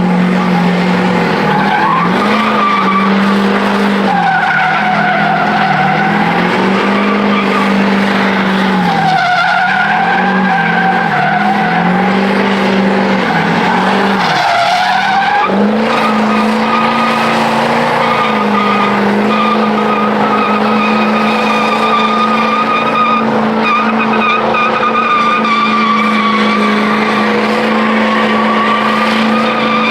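Truck burnout: the engine held at high revs with the tyres spinning and squealing against the pavement. The engine note sags and recovers a few times in the first half, then holds steady.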